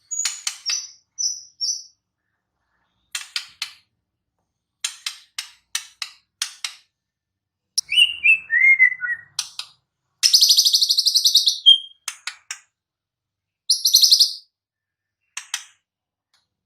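White-rumped shama singing in short, separate phrases: sharp clicking notes, a run of falling whistles about eight seconds in, and a fast buzzy trill just after ten seconds, with silent gaps between phrases.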